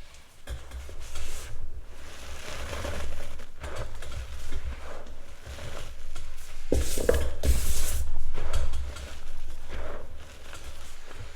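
Gym chalk being crushed and crumbled, crunching and scraping in irregular bursts over a steady low rumble; the loudest burst comes about seven seconds in.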